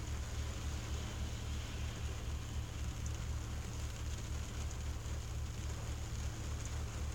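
Rain falling on a car windshield, heard from inside the car as a steady even hiss with a few faint taps, over a steady low rumble.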